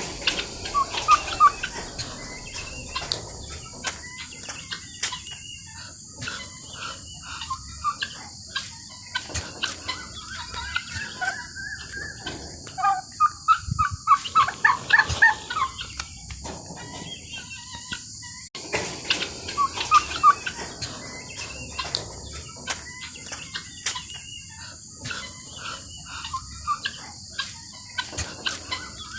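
Turkeys and guineafowl calling in bursts of short, repeated notes, busiest about halfway through, over a steady high-pitched drone.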